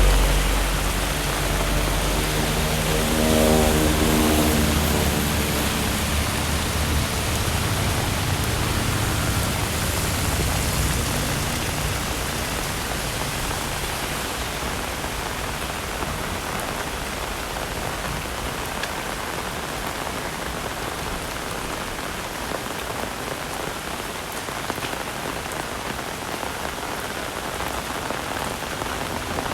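Heavy rain falling steadily, an even hiss of rain on the ground and surfaces. In the first few seconds a passing engine's low hum fades away under the rain.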